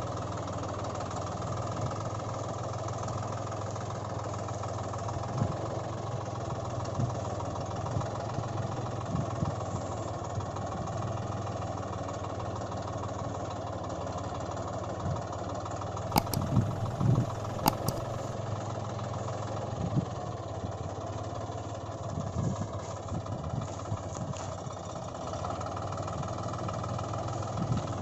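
Toy tractor engine sound idling steadily, with a few sharp clicks and knocks about sixteen to eighteen seconds in.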